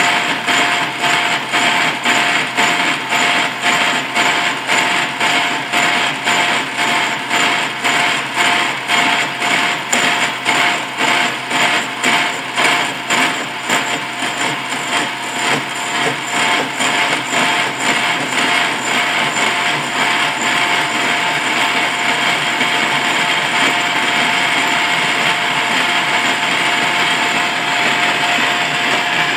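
Radial drill running, line boring through steel: a steady machine whine with a pulsing beat of about two a second that smooths into an even drone about two-thirds of the way through.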